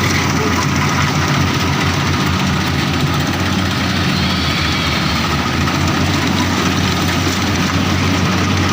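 Rice combine harvester's diesel engine running steadily at a constant speed.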